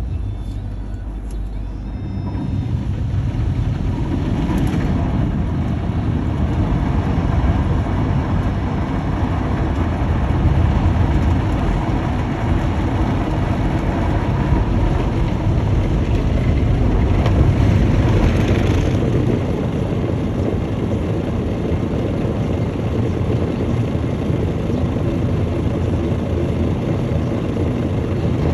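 Automatic car wash running over a car: a steady low rumble with rushing spray noise that grows louder about two seconds in, with brief stronger hissing passes.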